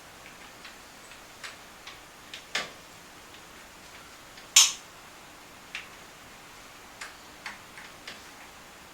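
Light, irregular clicks and taps of hands handling an ATV brake line and nearby parts while it is routed, with one sharper click about four and a half seconds in.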